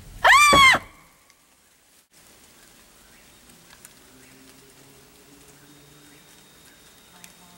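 A girl's short, high-pitched scream, rising then falling in pitch and lasting about half a second. After it comes a faint steady hiss with faint low hum-like tones.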